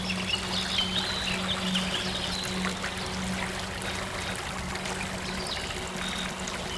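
Stream water flowing and trickling, with a small bird chirping through the first couple of seconds and again briefly near the end, over a low, steady soft synth drone.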